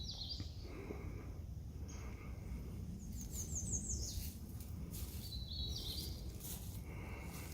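Songbirds singing in woodland: a few short high chirps and quick rising trill notes, over a low steady rumble.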